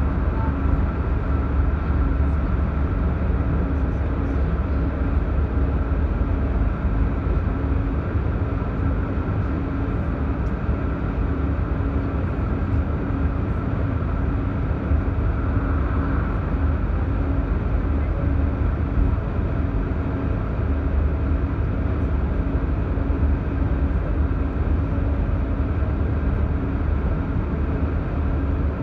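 Electric commuter train running at speed, heard from inside the passenger car: a steady low rumble of wheels on rail with a constant hum over it.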